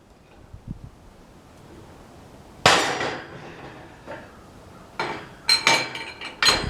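Metal-on-metal strikes: one sharp ringing clank about two and a half seconds in, then a quick run of ringing metallic knocks near the end.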